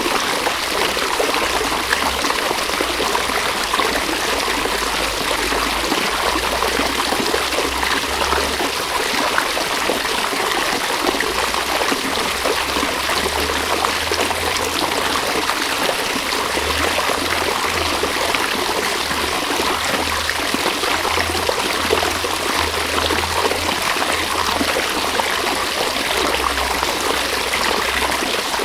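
River water running steadily, a continuous rush with trickling.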